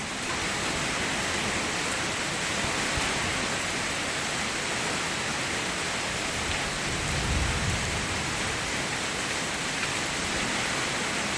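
Heavy rain falling steadily as an even hiss during a thunderstorm, with a brief low swell a little past halfway.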